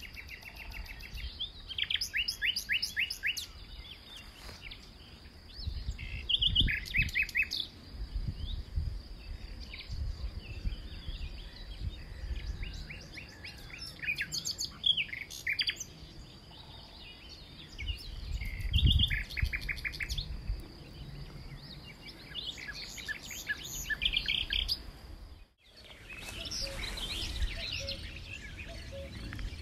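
Several songbirds singing, with repeated short, rapid phrases of high chips and trills over a steady high tone, and low rumbles now and then. The sound drops out briefly about 25 seconds in and returns with denser, overlapping birdsong.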